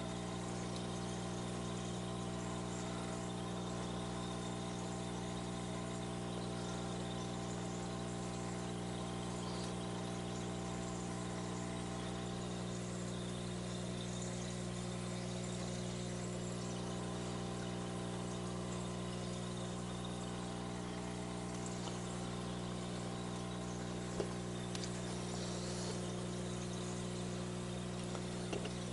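Steady low motor hum, even and unchanging, with one faint tick about 24 seconds in.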